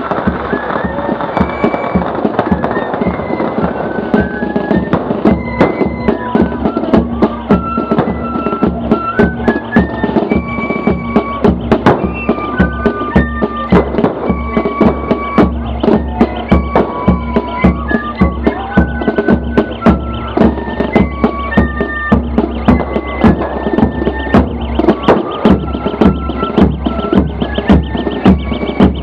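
A corps of drums playing a march: fifes carry a stepping melody over drums beating close by in a quick, steady rhythm.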